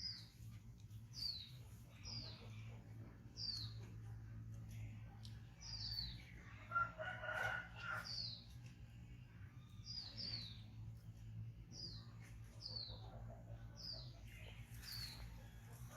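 Bird chirping: a short, high note falling in pitch, repeated about once a second. A louder, longer call comes about seven seconds in, over a faint steady low hum.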